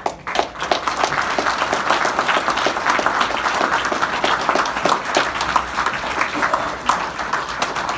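A crowd applauding, the clapping starting all at once and holding steady.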